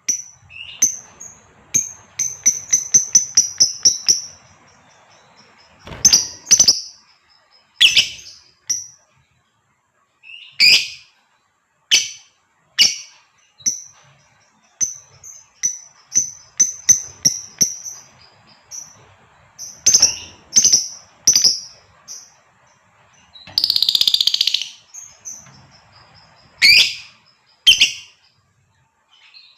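Female lovebird calling with sharp, high chirps, some single and some in quick runs of about four or five a second, and one longer, harsher rasping call about two-thirds of the way through.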